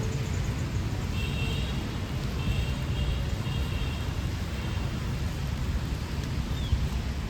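Steady city street ambience in light rain: a low traffic rumble under a soft wash of rain. Faint high repeated tones sound from about a second in until about five seconds in.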